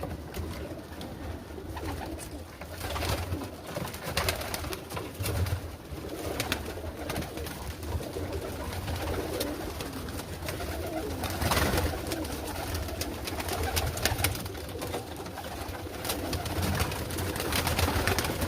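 Pigeons cooing in an enclosed loft, with many scattered short clicks and rustles throughout.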